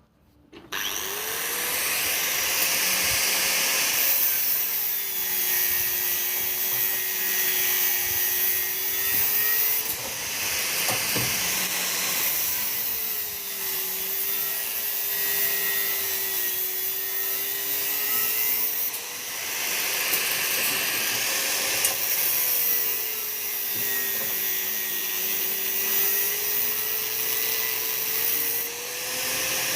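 Electric power tool running at full speed, its motor note dropping and holding lower for about five seconds at a time, three times, as it is bogged down under load, then rising back to free-running speed.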